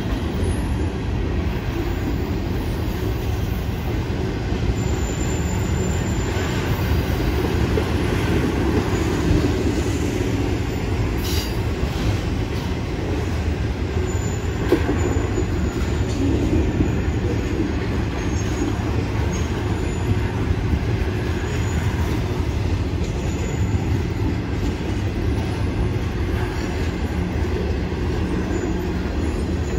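Freight train of flatcars loaded with continuous welded rail rolling past, its wheels giving a steady rumble on the track.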